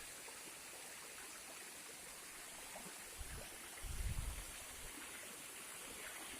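Steady rushing of a waterfall, with a couple of brief low bumps about three and four seconds in.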